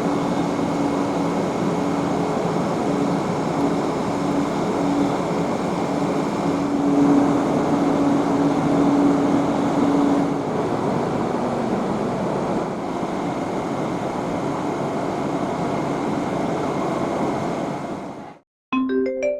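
Steady running noise of an electric commuter train heard from inside the car: rumble and rail noise with a held motor tone that stops about ten seconds in. The sound fades out near the end and a short marimba-like tune begins.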